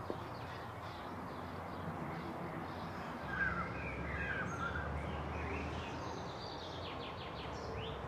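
Outdoor ambience with a steady low rumble, and birds chirping briefly about halfway through and again near the end.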